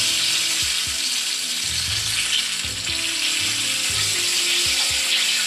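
Chicken wings frying in hot oil in a pan, a steady crackling sizzle.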